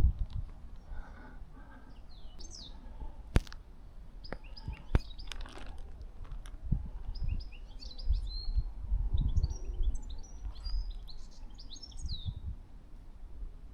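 Small birds chirping and twittering in short high notes, busiest in the second half, over a low irregular rumble, with two sharp clicks about three and a half and five seconds in.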